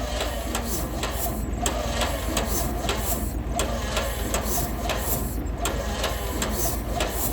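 John Deere A's two-cylinder engine being cranked over on a cold start without catching, turning over with uneven chuffs about two to three a second over a steady low drone.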